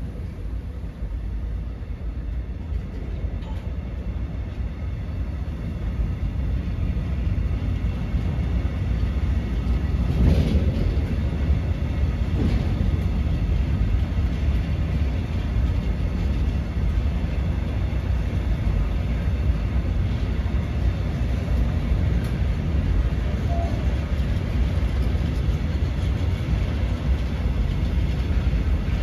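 Tank wagons of a freight train rolling past: a steady low rumble of wheels on rails that grows louder over the first ten seconds, with a short knock about ten seconds in.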